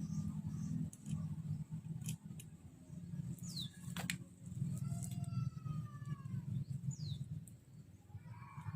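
Small birds chirping, with several short downward-sliding whistles, over a low steady hum. A few sharp clicks come through, about two and four seconds in.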